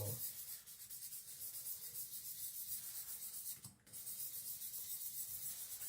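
Faint, steady abrasive rubbing on a whetstone, with a brief break a little past halfway.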